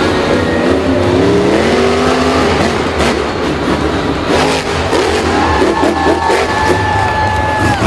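A motor vehicle's engine revving: its pitch climbs over the first couple of seconds, then from about five seconds in a high whine is held and drops away at the end, over a steady low rumble.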